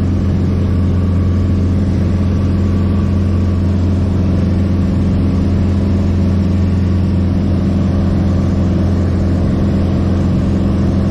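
A light airplane's piston engine running steadily at constant power, heard from inside the cabin.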